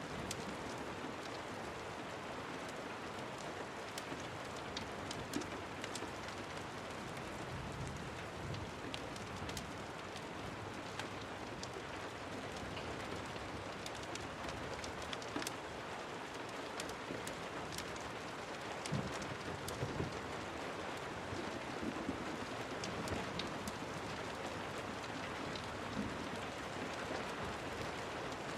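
Steady rain falling on a surface, with scattered sharp ticks throughout and a couple of soft low thumps about two-thirds of the way in.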